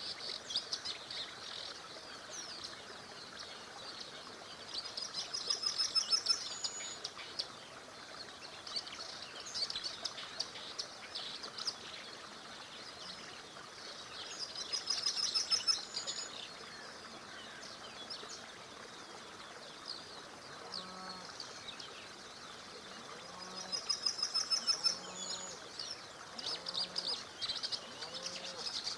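Several small songbirds chirping, with one bird repeating a rapid trilled song about every nine seconds that grows louder through each phrase. From about two-thirds of the way in, a lower short call repeats roughly once a second, over a faint steady wash of background noise.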